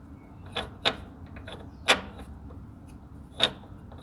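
Sharp knocks and clicks of hard parts and tools being handled during engine work: about four distinct knocks with smaller ticks between, the loudest about two seconds in.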